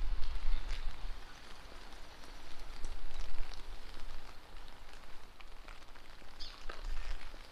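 Steady rainfall hissing, with scattered individual drops ticking close by. Under it, a low rumble swells and fades in gusts: strong wind buffeting the microphone.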